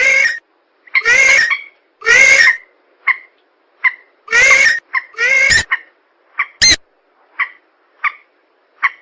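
Lure recording of swamp-bird calls for 'mandar' rails and 'pelan': loud, harsh calls about half a second long repeat several times, alternating with short sharp single notes roughly once a second.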